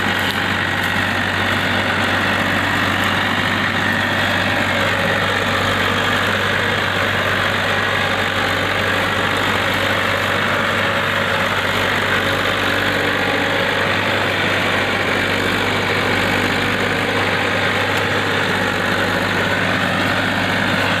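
Tractor engine running steadily at an even, unchanging speed.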